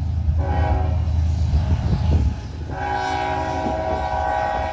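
Diesel locomotive air horn sounding a short blast and then a longer one, over a heavy low rumble.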